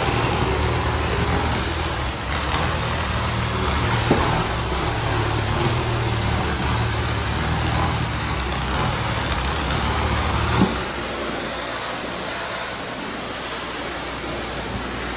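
Tile-cleaning extraction equipment running steadily: a low engine-like hum under a continuous hiss. About ten and a half seconds in there is a click and the low hum drops away, leaving mostly the hiss.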